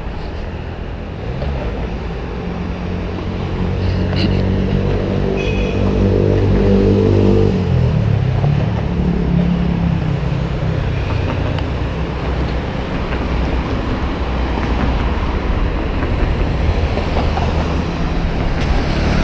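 Road traffic: a vehicle engine running over a steady low rumble. The engine hum is loudest from about four to seven seconds in, then drops off suddenly.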